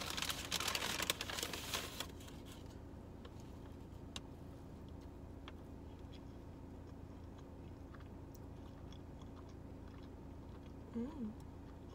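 Paper bag rustling loudly for about two seconds as a glazed donut is pulled out of it. Then a bite and quiet chewing with small wet mouth clicks, and a short closed-mouth "mm" near the end.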